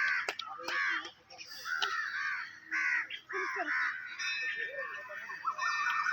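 A bird calling over and over, a string of short arched calls of about a third of a second each. Steady held tones come in over the last two seconds.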